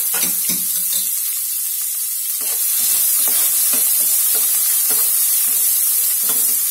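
Chopped onions and mustard seeds frying in hot oil in a pot, sizzling steadily, while a metal spatula stirs and scrapes them in regular strokes, about two to three a second from a couple of seconds in.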